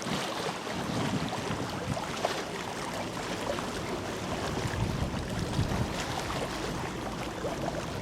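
Steady outdoor wind noise on the microphone with a wash of water, and a few brief low rumbling gusts.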